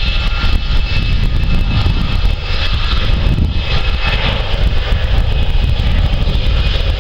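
Jet airliner passing low near the airport: a loud, steady engine rumble with a thin high whine from its engines.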